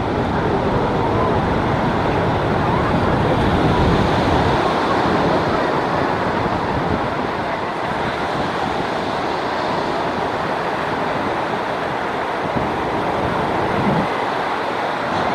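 Ocean surf washing steadily onto the shore, with wind noise on the microphone.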